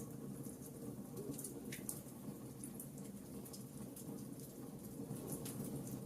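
Wood fire crackling in a fireplace: scattered sharp pops and snaps, several a second, over a steady low rumble of burning.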